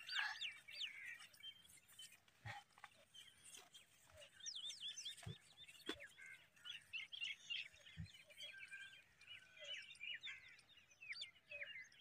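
Birds chirping and calling faintly in many short, quick notes all through, with a few soft knocks in between.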